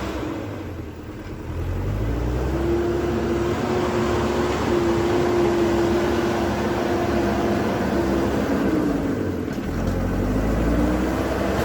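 Diesel engine of an earthmoving loader at work: it dips about a second in, revs up and holds high for several seconds, then drops off and revs up again near the end.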